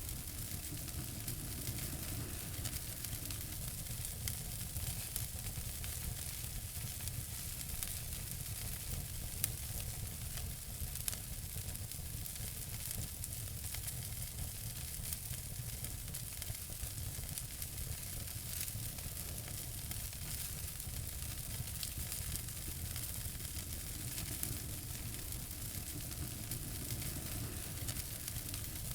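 Wood fire burning in a fireplace, crackling and hissing steadily with frequent small pops.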